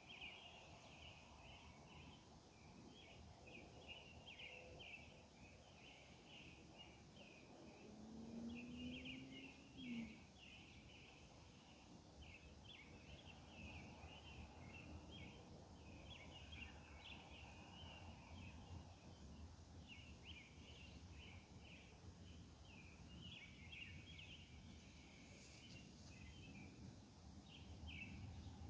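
Faint night chorus of insects, likely katydids, a steady run of rapid raspy chirps. Around eight seconds in a faint low tone rises in pitch for about two seconds and stops.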